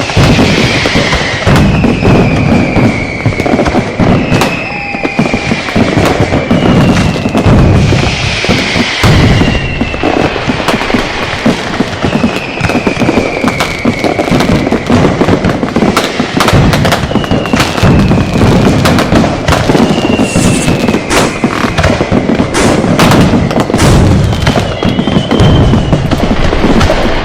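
Dense, continuous barrage of firecracker bangs and crackles, overlaid by a series of short falling whistles from whistling fireworks, one every couple of seconds.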